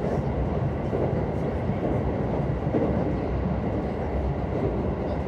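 Steady low rumble of wheels and running gear heard from inside a JR West 223-2000 series electric commuter train running across a river bridge.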